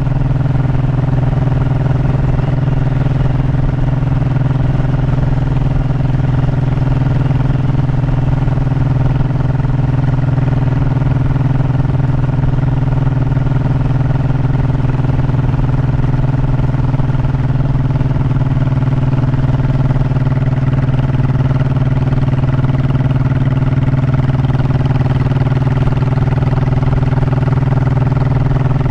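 Honda motorcycle engine running at a steady, even pitch, with no revving or gear changes.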